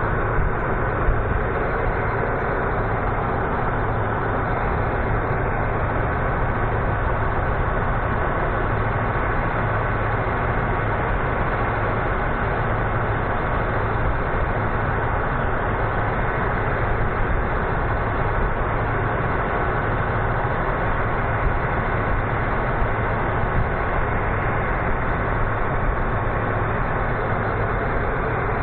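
1987 Ford LTD Crown Victoria's V8 engine idling steadily with the hood open, its power steering pump running on a newly replaced high-pressure hose while the system is topped up to the hot mark.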